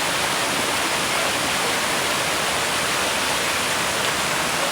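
Waterfall: water falling and rushing in a steady, loud, even roar.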